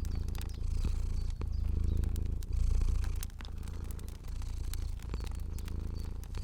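Cat purring, a low rumble that swells and fades with each breath, with the scattered pops and crackles of a fire over it.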